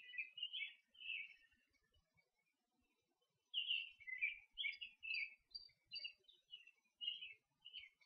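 A songbird singing two phrases of short, quick whistled notes: one at the very start, the other from about three and a half seconds in, with thin higher notes mixed in near the end.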